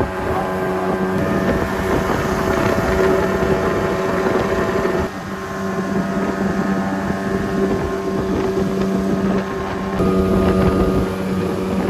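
Jet boat's two-stroke engine running at a steady high speed, its pitch holding level, with rushing water and wind buffeting the microphone.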